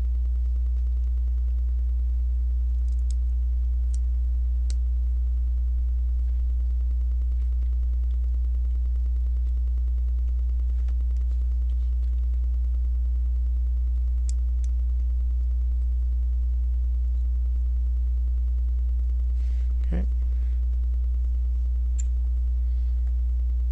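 Steady low electrical hum, mains hum picked up in the recording, with a few faint light clicks of LEGO pieces being handled and pressed together.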